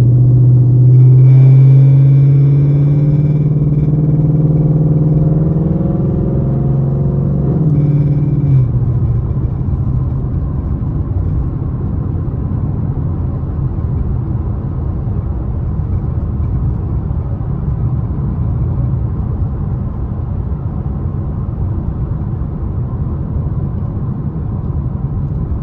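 Ford Mustang GT's V8 engine droning under load as the car pulls away, its pitch climbing slightly before it falls away about eight seconds in. A steady low road-and-tyre rumble follows while the car cruises.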